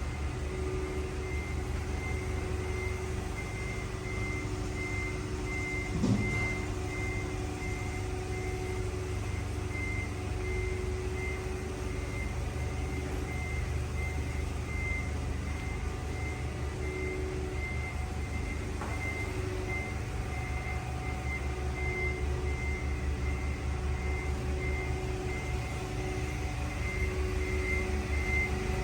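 2005 Cummins ISX 15-litre turbocharged six-cylinder diesel running steadily on a test run, with a high electronic beep repeating at an even pace throughout. A single short knock comes about six seconds in.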